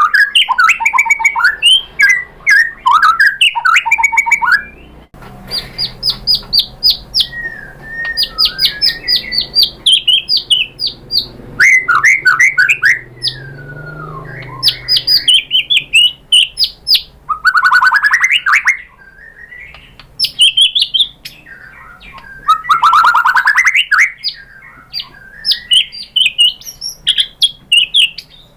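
White-rumped shama singing: fast runs of short repeated notes, trills, whistled slides and harsh chattering phrases, a song loaded with mimicked 'isian' phrases.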